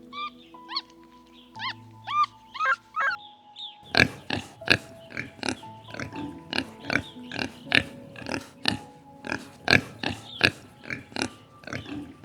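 A few high, arched squeaks from an animal, then from about four seconds in a quick run of short, sharp grunts, about three a second, over soft background music.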